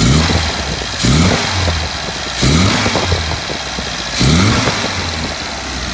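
Freshly rebuilt MGB 1800 B-series four-cylinder engine on twin SU carburettors, just broken in and tuned, blipped four times from idle. Each time the revs rise quickly and fall back to a steady idle, and it sounds pretty good.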